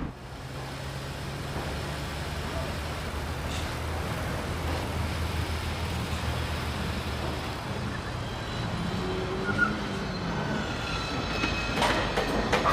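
Steady low hum of a car driving. About two-thirds in it gives way to construction-site noise, with sharp metallic clanks near the end.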